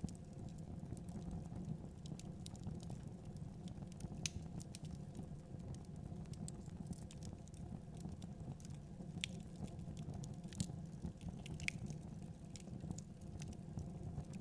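Wood fire crackling, with irregular sharp pops and snaps over a low steady rumble of wind.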